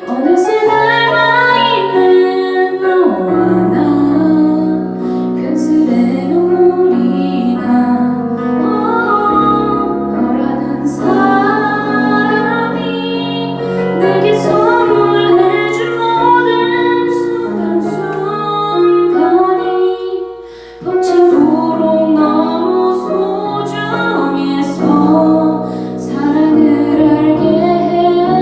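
A woman singing a Korean ballad live with instrumental accompaniment, in long held notes. The music drops low for a moment about twenty seconds in, then comes back.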